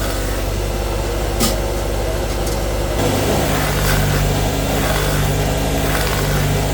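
Factory machinery running with a steady low hum. A sharp click comes about a second and a half in, and a deeper hum joins about halfway through.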